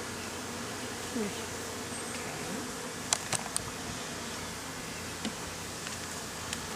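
A colony of honeybees humming steadily from an opened hive. Three sharp clicks a little after the halfway point, and two more single clicks later.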